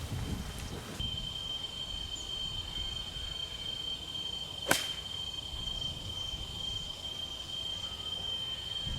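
A golf club striking a ball once, a sharp crack about halfway through, over a steady high-pitched insect drone.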